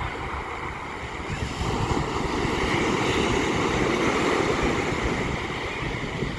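Ocean waves breaking on the shore: a rushing surf that swells about a second and a half in, holds for a few seconds, then eases off. Wind buffets the microphone.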